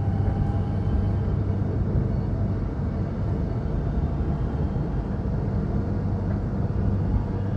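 Electric suburban train running between stations: a steady rumble of wheels on track with a low, even hum.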